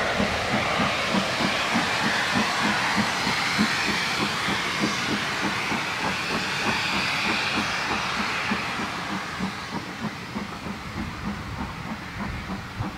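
Steam-hauled train of passenger coaches running past: a steady rumble and rush with a regular beat of about three knocks a second. It fades over the last few seconds as the train draws away.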